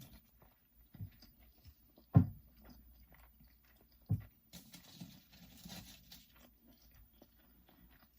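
Close-up chewing of a McDonald's double Filet-O-Fish sandwich, with soft mouth clicks throughout. Two brief low thumps about two and four seconds in, the first the loudest, and a stretch of rustling about halfway through.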